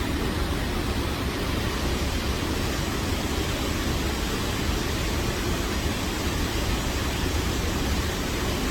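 Waterfall: a loud, steady roar of falling water with a deep low rumble, unchanging throughout.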